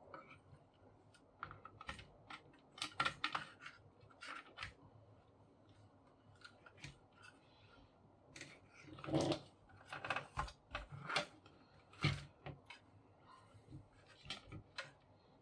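Scattered, irregular clicks, taps and knocks of hands handling the opened paper laminator's parts and wiring, in small clusters with short quiet gaps.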